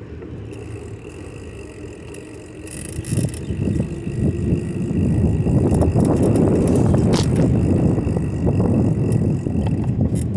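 Bicycle being ridden over pavement: a low rolling rumble with light rattles, getting louder from about four seconds in.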